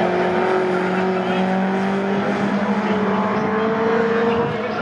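Engines of historic pre-1966 touring race cars running hard on track, one steady engine note with another rising in pitch as a car accelerates, then easing off shortly before the end.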